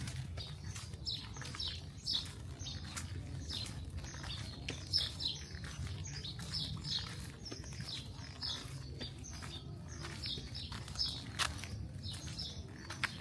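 Small birds chirping: many short, quick falling chirps, repeating over a steady low rumble of city background noise, with a sharp click near the end.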